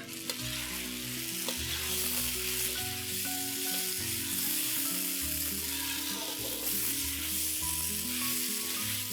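Fried chicken pieces and diced vegetables sizzling in a sticky sauce in a hot pan as they are stirred and tossed, with occasional clicks of the spoon against the pan. Background music plays underneath.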